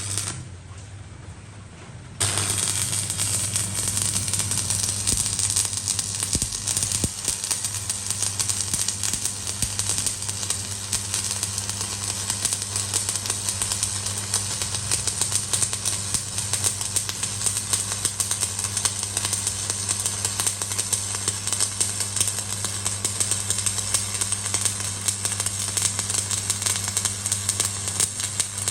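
Electric arc welding: after a short burst at the start, the arc strikes about two seconds in and then crackles and hisses steadily, over a low steady hum.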